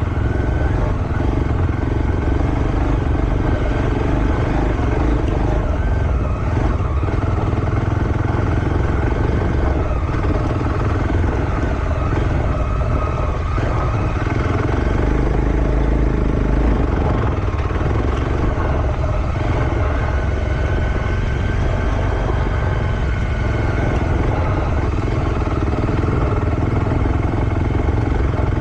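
Motocross bike engine running steadily through a slow lap, with a dense low rumble and no big revs.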